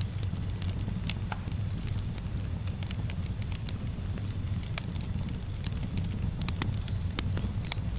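Campfire burning, with frequent sharp, irregular crackles and pops over a steady low rumble of the flames.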